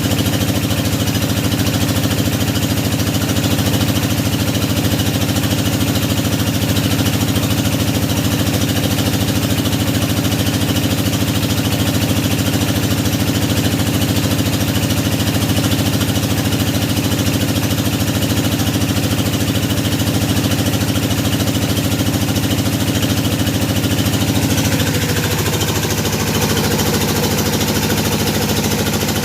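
Engine of a hydraulic deep-well drilling rig running steadily. About 25 seconds in, its note shifts lower and settles at a new steady pitch.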